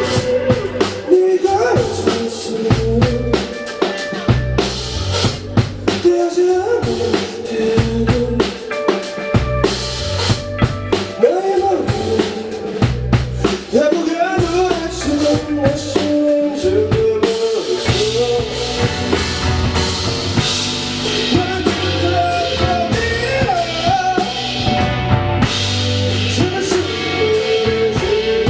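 Live rock band playing, with a drum kit to the fore: steady bass drum, snare and rimshot hits under wavering pitched melody lines.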